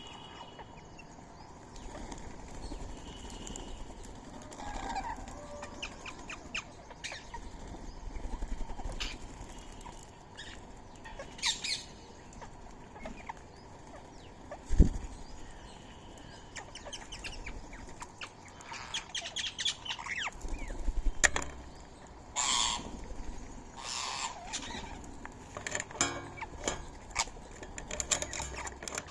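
Indian ringneck parakeets flapping their wings again and again while feeding, amid many small clicks and taps of eating and a few short calls. One sharp knock comes about halfway through.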